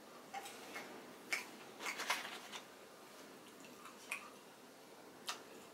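A person biting and chewing crunchy food close to the microphone: a scattered run of short crunches, thickest about two seconds in, with a few single ones later.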